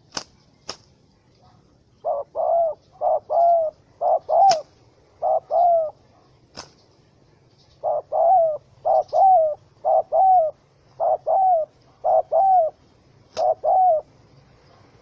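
Spotted dove cooing in two runs of short, repeated coos, each note rising and falling slightly in pitch. A few sharp clicks sound between the runs.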